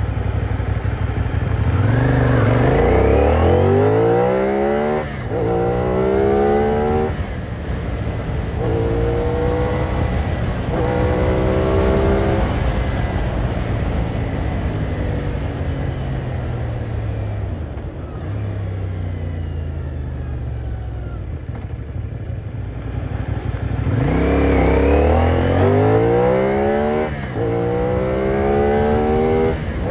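CFMoto 450NK's parallel-twin engine accelerating hard through the gears: the revs climb, break off at each upshift, and climb again, about four times. The engine then winds down slowly as the bike slows, and from about four-fifths of the way through it pulls hard again with one more upshift.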